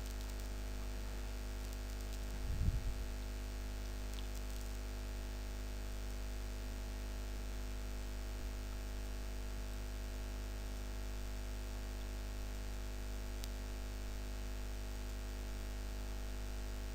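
Steady electrical hum with hiss: background noise of the recording chain, holding several fixed low tones. A brief faint low sound comes about two and a half seconds in.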